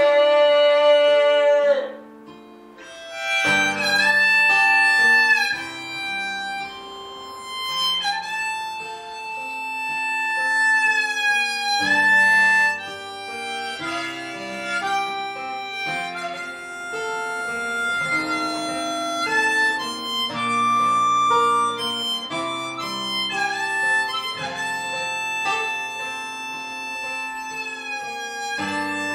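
Harmonica playing a melody over guitar chords in an instrumental break of a song. A held sung note fades out about two seconds in, and after a short gap the harmonica and guitar come in.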